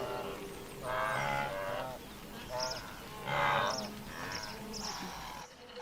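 Wildebeest calling: a series of about five nasal, lowing calls, the first and longest about a second in.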